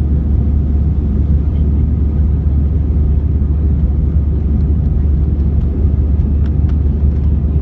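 Steady low rumble of an Airbus A321's engines and airflow, heard from inside the cabin, level and unchanging.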